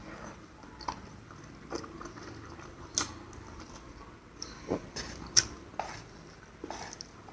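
Close-miked eating sounds: a person chewing spicy instant noodles, with wet mouth smacks and clicks scattered irregularly throughout, the sharpest about three seconds in and again about five and a half seconds in.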